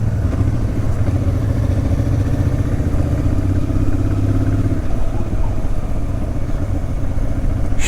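Honda Transalp motorcycle engine running steadily while riding, easing off a little about five seconds in.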